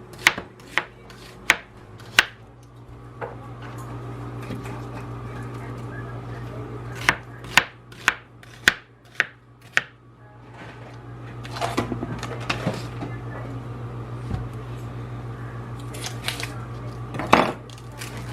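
Knife chopping on a cutting board: sharp single strikes about two a second, in several runs with pauses between. A steady low hum sits under it.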